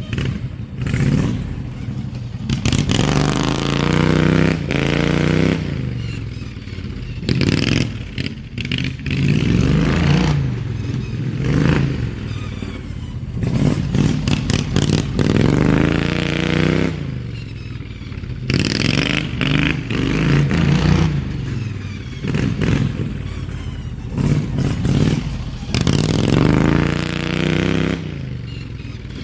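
Slightly modified Briggs & Stratton V-twin engine of a hot-rodded Craftsman LT2000 riding mower, its exhaust note rising and falling again and again as the engine is revved up and let off while the tractor is driven hard.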